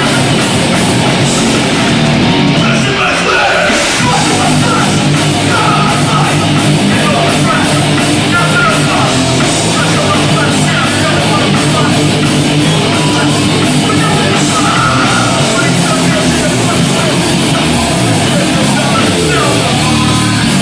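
Hardcore punk band playing live, loud and continuous, with no break.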